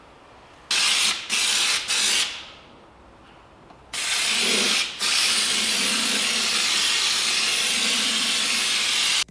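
Pressurised air or spray hissing from a nozzle: three short blasts, then one long continuous blast that cuts off suddenly.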